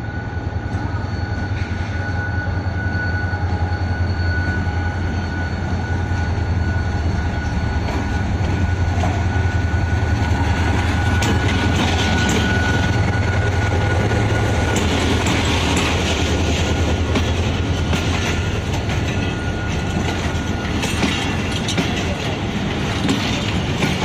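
Diesel-electric locomotive pulling a departing passenger train past at close range: a steady engine drone with a high whine, building to its loudest about ten seconds in. Then the passenger coaches roll by with scattered clicks from the wheels over the rail joints.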